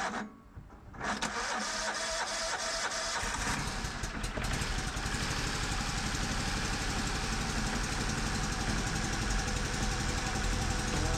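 The gasoline engine of a band sawmill starting about a second in, catching a couple of seconds later and then running steadily, with the mill serviced and ready to cut.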